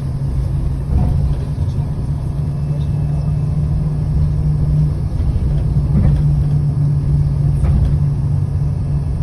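City bus engine running with a steady low drone and road rumble, heard from inside the bus while it drives; the drone dips briefly about five seconds in.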